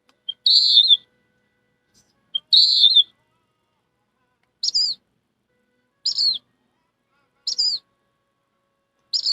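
A person imitating bird calls with high whistled notes: two calls of about half a second near the start, then four short falling notes about a second and a half apart.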